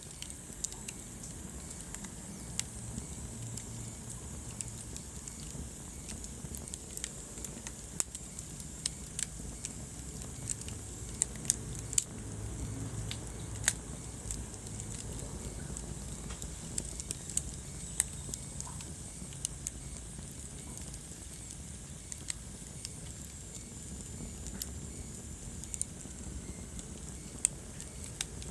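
Wood fire burning in a fireplace: irregular sharp crackles and pops over a steady low rumble and hiss of the flames.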